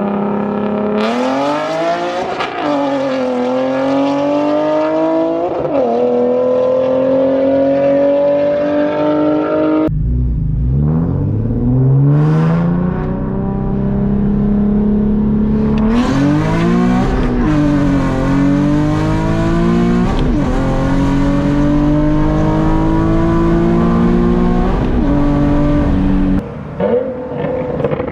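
Sports car engine accelerating hard through the gears: the pitch climbs, drops sharply at each upshift, then climbs again, in two separate hard pulls.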